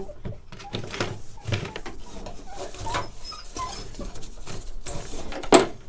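A dog whimpering in a few short high whines, among small clicks and rustles of parts being handled, with one sharp knock near the end.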